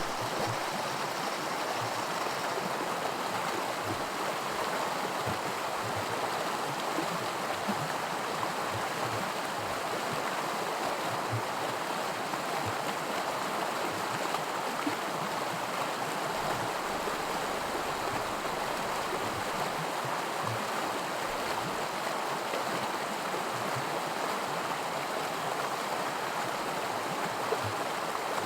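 Creek water rushing over small rapids: a steady, even rush with small gurgles.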